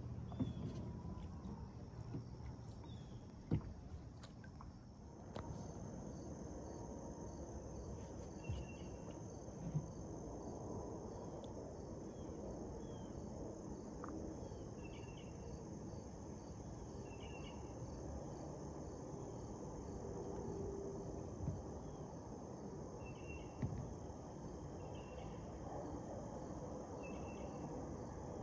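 Insects calling outdoors: a steady high-pitched drone sets in about five seconds in, with short chirps repeating every couple of seconds over a low rumble and a few scattered knocks.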